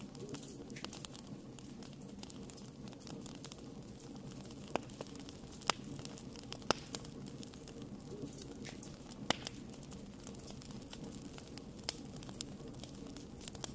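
Wood fire burning in a fireplace: a steady low rush of flames with scattered sharp crackles, and a few louder pops in the middle.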